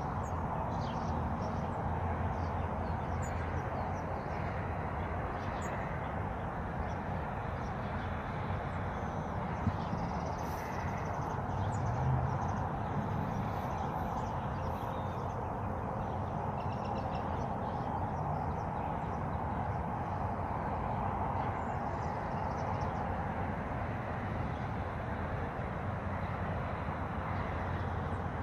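Scattered faint bird chirps over a steady rushing background noise.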